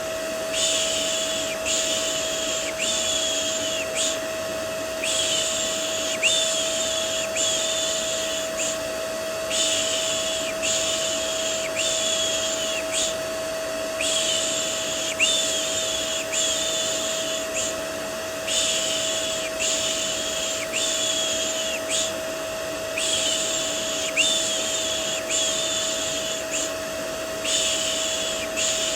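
Vacuum cleaner white noise, a steady motor hum with a constant whine, overlaid with a rhythmic 'shh shh' shushing for soothing a baby to sleep. The shushes are strokes a little under a second apart, in runs of four or five with short pauses between runs.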